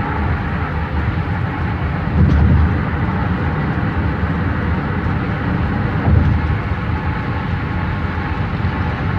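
Tyre and road noise of a car driving on a highway, a steady rumble with a few louder low bumps about two and six seconds in.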